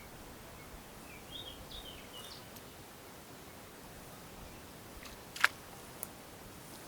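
A small bird chirps several times in quick succession against a steady outdoor hiss, then a sharp click sounds about two-thirds of the way through, followed by a fainter click.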